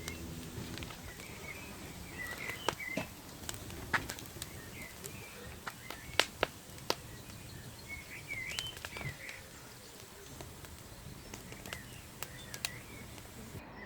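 Small birds chirping now and then outdoors, over scattered sharp clicks and cracks at irregular intervals.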